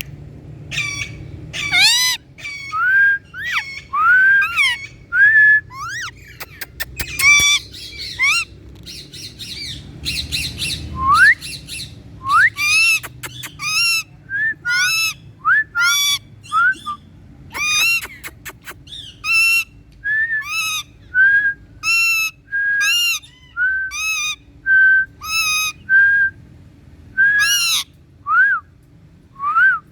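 Indian ringneck parrot calling: a long series of short, sharp calls with rising or arching pitch, coming roughly once a second.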